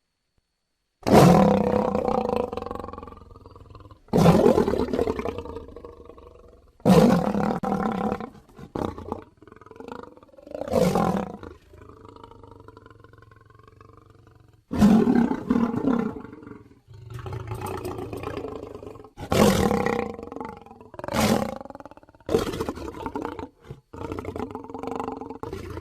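Lion roaring: after a second of silence, a run of loud roars, each starting hard and fading away, with shorter, quieter grunting calls between them.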